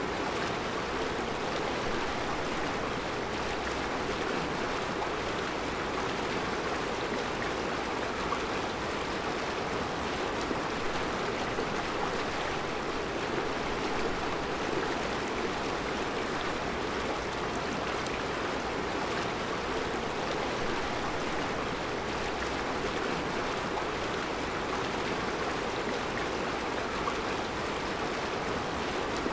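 Mountain river flowing over a rocky bed of round stones: a steady, even rush of water.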